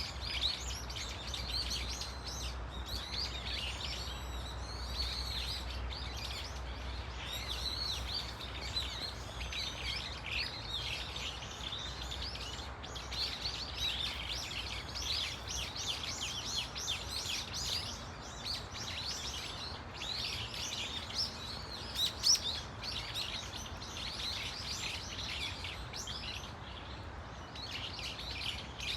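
A flock of brown-eared bulbuls calling: many high-pitched calls gliding up and down, overlapping almost without a break, over a low steady rumble.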